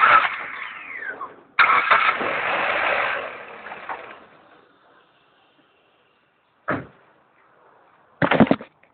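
Suzuki Reno being briefly cranked on its starter, with a whine that falls in pitch as it winds down right at the start. About a second and a half in, it is cranked again for about two seconds, and then the sound dies away. A short knock comes near seven seconds and a louder burst near the end.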